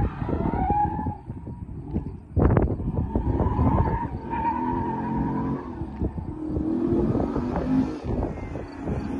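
2015 Dodge Scat Pack's 6.4-litre Hemi V8, heard at a distance, revving and easing off as the car is driven hard, with tyres squealing. Gusts of wind buffet the microphone, loudest about two and a half seconds in.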